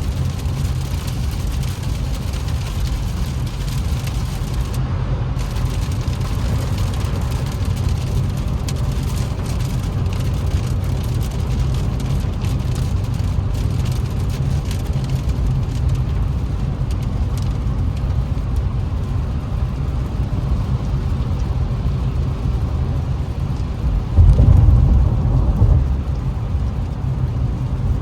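Infiniti Q50S driving in heavy rain, heard from inside the cabin: a steady low drone of engine and tyres with rain hitting the car. About 24 seconds in, a louder low rumble lasts about two seconds.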